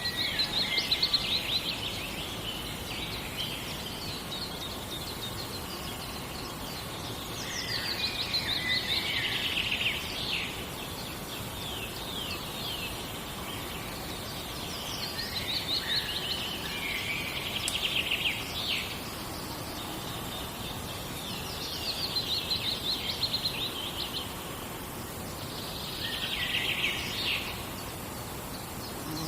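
A songbird repeatedly singing a short phrase of fast trilled notes, each lasting two to three seconds, five times at intervals of about six seconds, over a steady background hiss of forest ambience.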